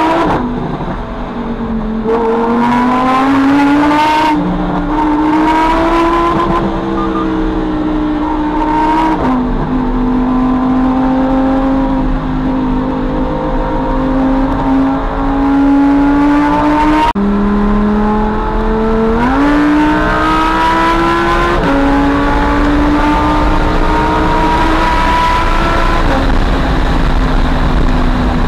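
Lamborghini Huracán STO's naturally aspirated V10 under hard acceleration, heard from inside the cabin. The engine note climbs steadily and drops sharply at each of several upshifts as the car pulls from about 80 to over 200 km/h.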